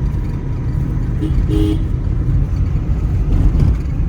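Steady low rumble of a car being driven, heard from inside the cabin, with a short horn toot of two steady tones about a second and a half in.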